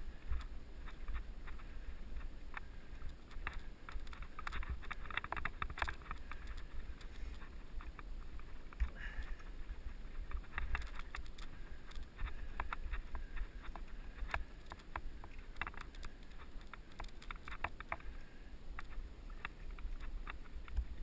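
Mountain bike riding on a dirt trail, heard from a helmet-mounted camera: tyres on dirt and gravel, with many small clicks and rattles from the bike over a steady low rumble of wind on the microphone.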